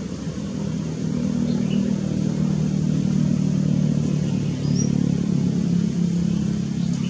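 A steady low engine hum, like a motor vehicle running at idle, a little louder from about a second in. A few faint, short, high chirps sound over it.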